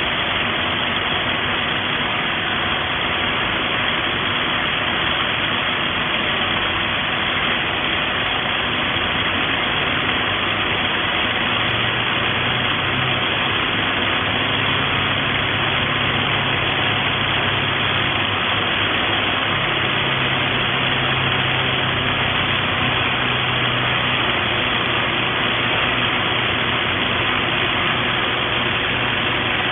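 Electric SDS-plus rotary hammer running continuously with a steady motor noise; a low hum joins in about twelve seconds in.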